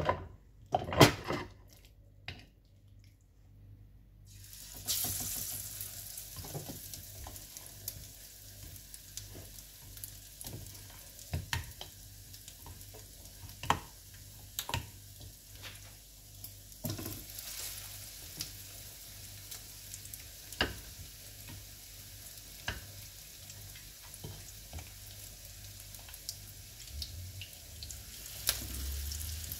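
Besan-battered, already-cooked lamb chops shallow-frying in hot oil in a frying pan. A steady sizzle starts about five seconds in, when the first chop goes into the oil, and carries on as more chops are added, with occasional light clicks and knocks.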